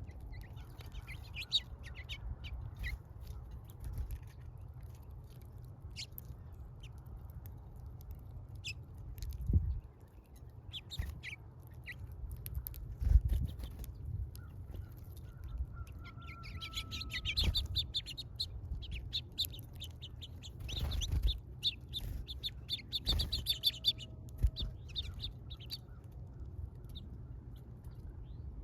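Small birds chirping at a feeder: scattered short, high chirps, with two bursts of rapid chirping, one midway and one later on. A few low thumps come in between, over a steady low rumble.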